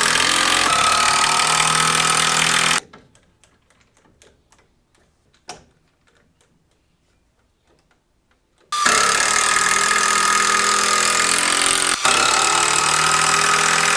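Cordless drill running at full speed into wood, stopping after about three seconds. A quiet stretch with a few light handling clicks and a knock follows, then the drill runs again for about five seconds, with a brief stop partway through.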